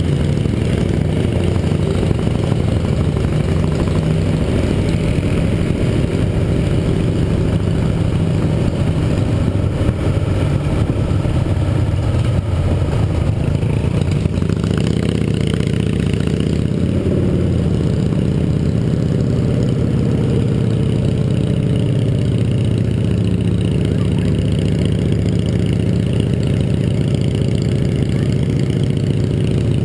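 Yamaha XT 660R's single-cylinder four-stroke engine running while riding, its note shifting with the throttle about halfway through.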